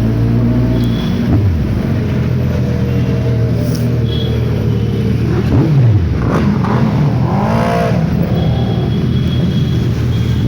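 Sport bike engine running on the move, its pitch rising and falling with a couple of quick throttle revs.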